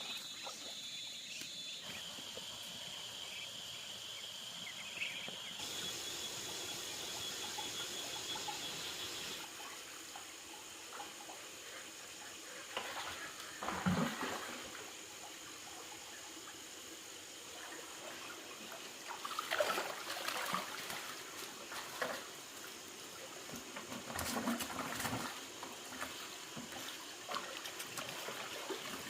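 Water trickling and splashing, with a few louder splashes spread through it, over a steady high-pitched whine in the background.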